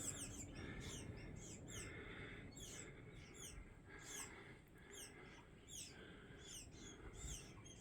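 Small nesting birds in a bell tower chirping faintly: a rapid run of short, high, falling chirps, several a second.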